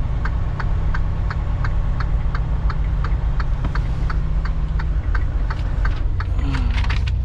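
Semi truck's diesel engine running at low speed, heard from inside the cab, with a steady ticking about three to four times a second over it.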